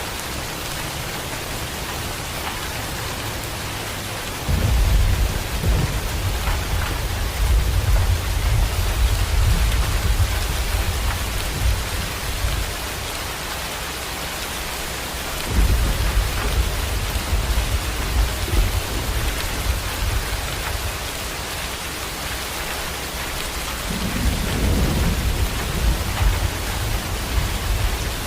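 Heavy rain pouring steadily, with three long rolls of thunder rumbling low underneath: one starting about four seconds in, one just past the middle and one near the end.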